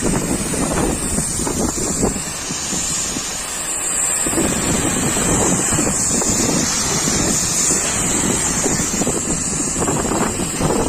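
High-pressure washer spray hissing steadily, with water spattering irregularly against the truck.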